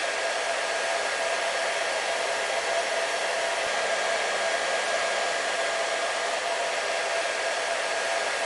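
Hair dryer running steadily: an even rushing of air with a steady motor whine held at one pitch.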